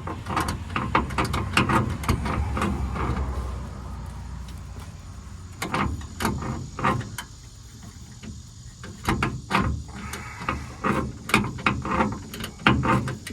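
Socket ratchet clicking in short runs as a rusted bolt that has just broken loose is turned out. There is a quieter pause in the middle.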